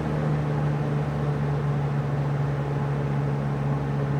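Vintage Kel-Aire box fan running on medium speed: a steady motor hum with an even rush of air. The hum drops a little in pitch right at the start as the motor settles from high to medium.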